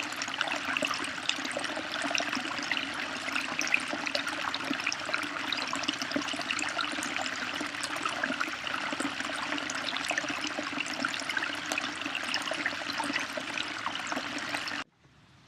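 Running water splashing and trickling steadily, cutting off suddenly near the end.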